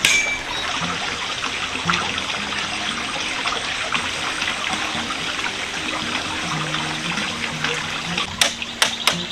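Water running or trickling steadily, with soft held music notes underneath. A quick series of sharp clicks or taps comes near the end.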